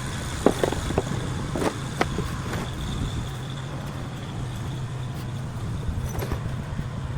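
An engine running steadily with a low, even hum, with a few short sharp knocks in the first two seconds.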